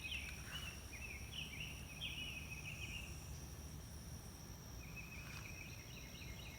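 Songbirds singing: a phrase of quick chirping up-and-down notes for the first three seconds, then a steady trill starting near the end, over a faint constant high drone of insects.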